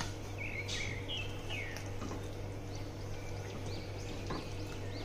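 Small birds chirping repeatedly over a steady low hum. About four seconds in there is a light knock as a spatula stirs the koftas in the steel pan.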